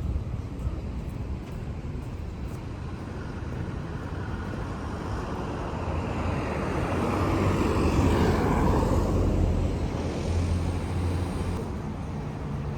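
Road traffic: a steady rumble with a motor vehicle passing close by, swelling to its loudest about eight seconds in and then fading.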